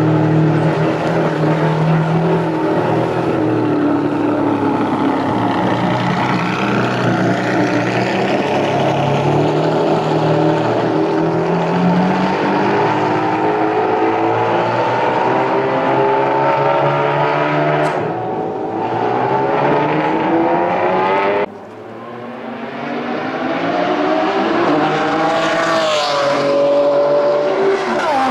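Ferrari Enzo's V12 engine running and revving, its pitch climbing repeatedly as it pulls away and accelerates. The sound cuts off suddenly about three-quarters of the way through, then comes back with rising revs.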